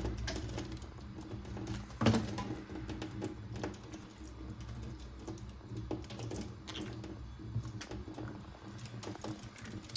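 Conures bathing: irregular light pattering and splashing of water with small clicks, and one louder splash about two seconds in.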